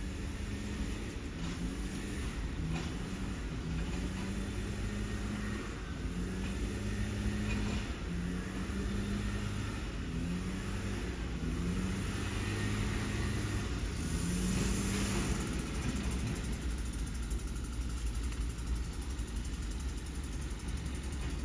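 Scania cardboard recycling truck's diesel engine running, its pitch stepping up and down in short spells, with a burst of air hiss about two-thirds of the way through.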